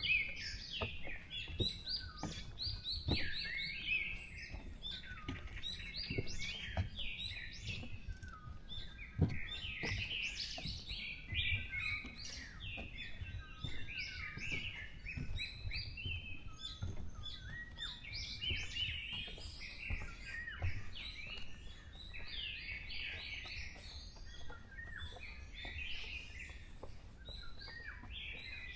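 Several wild birds calling and singing together in a forest, a dense mix of overlapping chirps and trills that runs on without a break. A low background rumble of wind or distant noise lies beneath.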